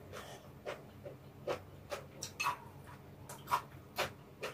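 Close-miked chewing and mouth smacking while eating: a string of short, irregular clicks, about two to three a second.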